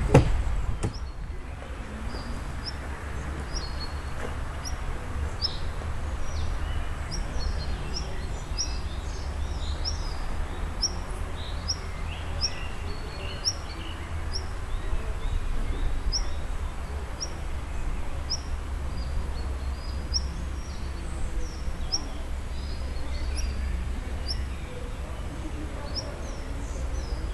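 Small bird calling with short high chirps repeated about once or twice a second, over a steady low rumble.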